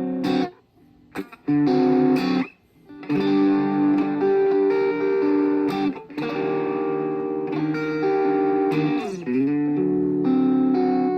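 Electric guitar, the Washburn Sonamaster, playing sustained chords. Early on several chords are cut off short, and about nine seconds in the pitch dips and returns.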